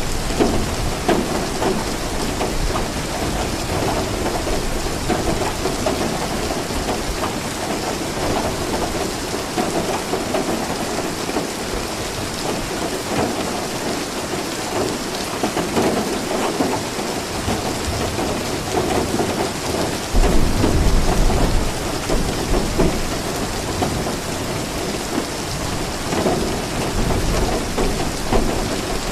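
Steady rain falling, with a low rumble of thunder swelling about two-thirds of the way through.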